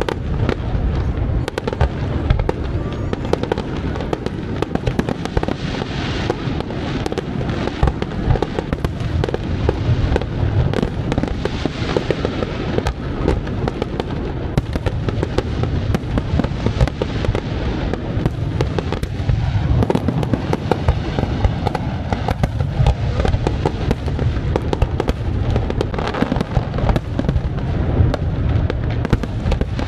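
Fireworks going off in a dense, continuous barrage of bangs and crackles, one after another without a break.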